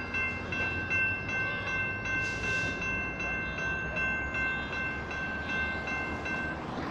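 Electronic railroad crossing bells (General Signals units) dinging rapidly, about three strokes a second, and stopping about six and a half seconds in as the crossing deactivates, over the low rumble of BNSF diesel locomotives. A short hiss comes about two seconds in.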